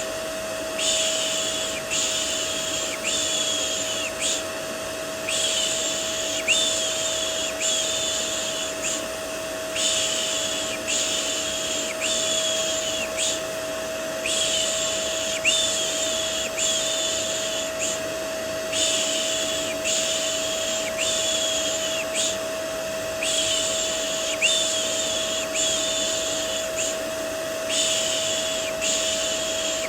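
Vacuum cleaner running steadily as white noise, its motor giving a constant hum. Over it a soft "shh" shushing for babies repeats about once a second, in runs of several shushes with short pauses between.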